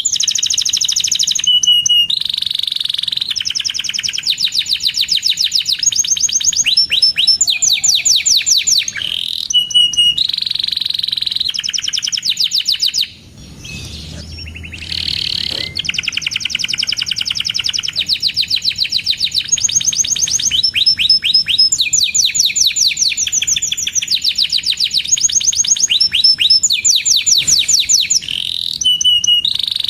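Domestic canary singing a long, continuous song of rapid high trills and rolling chirped phrases. There is a short break about halfway through.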